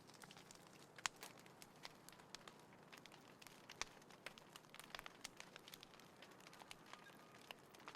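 Small campfire crackling faintly, with scattered sharp pops, the loudest about a second in and near four seconds.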